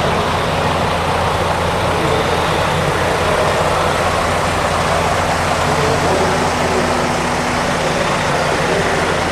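Idling heavy truck engines: a steady low drone that holds even throughout.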